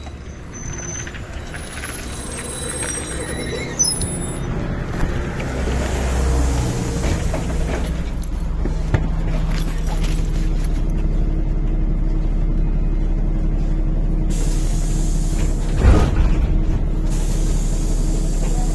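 Cabin noise of a NefAZ-5299 city bus moving off: engine and running noise build over the first several seconds and then hold as a steady low drone. There is a sharp knock about four seconds in and another near sixteen seconds.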